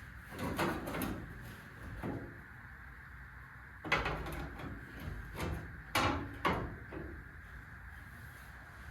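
Irregular knocks and clunks of a sheet-metal cowl panel being handled and set in place against the car body, the loudest cluster from about four to seven seconds in.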